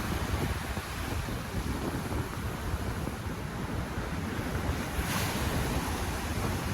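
Ocean surf washing on a beach, with wind buffeting the microphone; a wave's hiss swells briefly about five seconds in.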